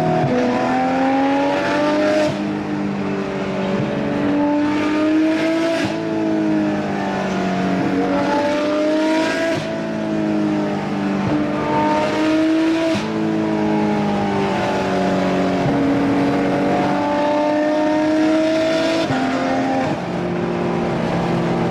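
Porsche 991.2 GT3 RS's 4.0-litre flat-six, fitted with Dundon street headers and race pipe, pulling hard through the gears: the pitch climbs steadily in each gear and drops back at each upshift, repeating several times.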